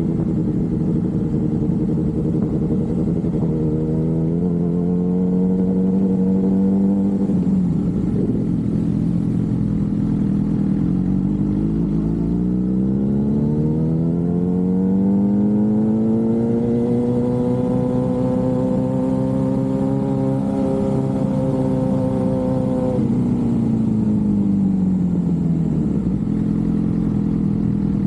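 Suzuki GSX-R750's inline-four engine under way, its pitch climbing with the throttle, breaking briefly about seven seconds in, climbing again to a steady high note, then dropping as the throttle is rolled off about three-quarters of the way through.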